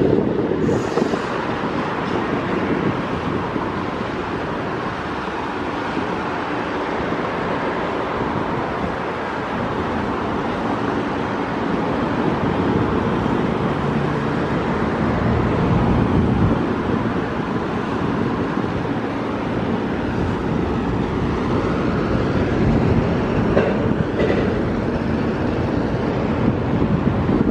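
Double-stacked container cars of a Canadian Pacific intermodal freight train rolling steadily past, with continuous wheel and rail noise.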